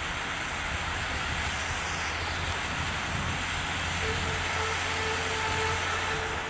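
A firework fountain burning with a steady hiss of spraying sparks. A faint, stuttering tone comes through in the last couple of seconds.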